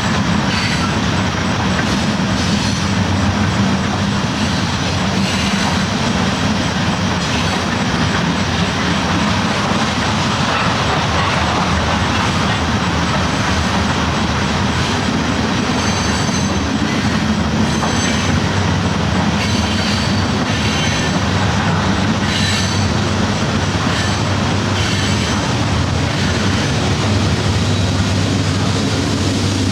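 Train rolling along the tracks, a steady, even running noise with a low hum, with short faint high-pitched wheel squeals now and then in the middle and later part.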